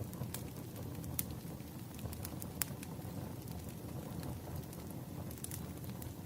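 Fireplace crackling: a steady low rumble of burning with scattered sharp pops and snaps, several close together near the end.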